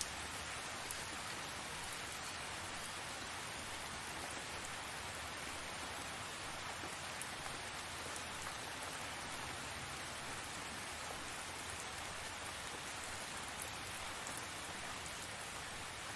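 Steady rain falling and pattering on surfaces, an even hiss with faint individual drop ticks and no change in strength.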